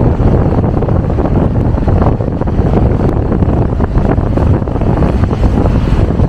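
Strong gusty wind buffeting the microphone: a loud, steady blast of wind noise left behind by a passing typhoon.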